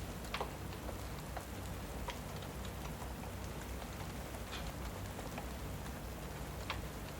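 Steady rain with a fireplace crackling over it, a few sharper pops standing out.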